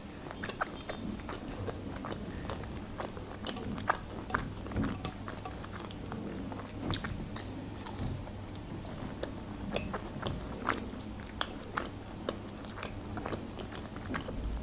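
A person biting and chewing chicken nuggets, with many short clicks of mouth sounds throughout.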